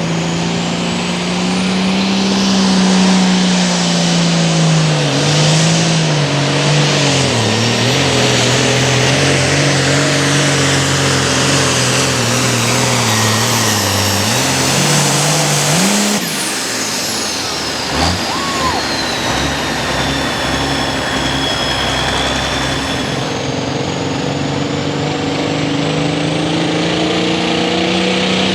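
Super Farm pulling tractor's diesel engine running hard under load, its pitch sagging and recovering several times, then dropping off about two-thirds of the way through with a high whine falling away. An engine's pitch rises again near the end.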